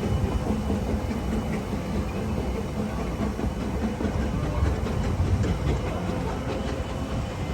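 Train running on the track, a steady low rumble.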